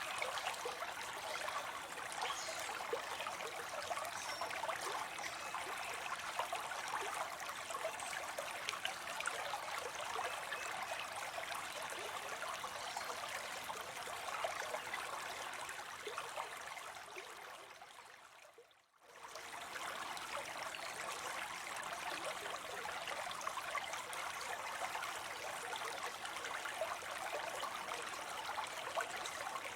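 Small spill of water falling into a pond, a steady trickling splash. About two-thirds through it fades briefly to near silence and then returns.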